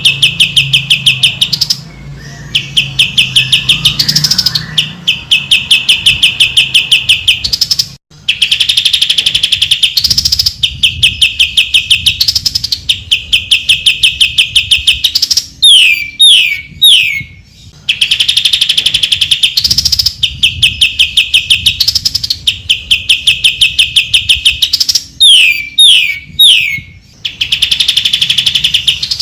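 Cucak ijo (green leafbird) singing: loud, fast trills of about two seconds each, repeated with short gaps. Twice, a run of three or four sharp downslurred whistles breaks in.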